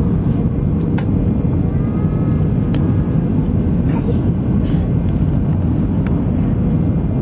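Airliner cabin noise: a steady low rumble of jet engines and airflow heard from inside the passenger cabin, with a few faint clicks and rattles.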